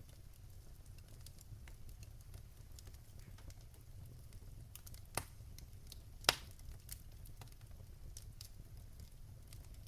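Fire crackling in a fireplace: many scattered small crackles over a low steady rumble, with two louder pops about five and six seconds in, the second the loudest.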